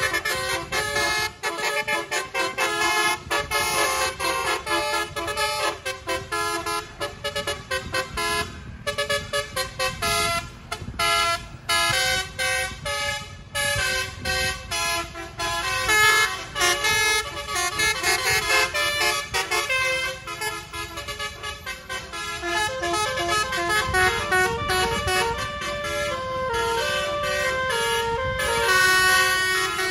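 Bus basuri (telolet) horn, a multi-trumpet electric horn, playing a tune in quick stepped notes, many of them sounded as short repeated blasts. A low engine rumble runs underneath.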